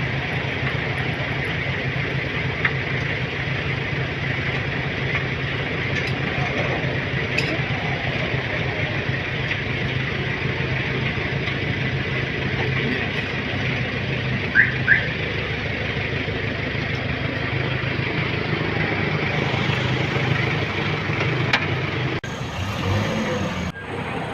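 A vehicle engine running steadily, with two short high chirps about midway.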